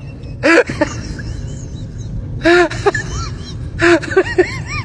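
A small dog yelping: three short high yelps, each followed by a few quieter rising-and-falling whimpers, over a steady low hum.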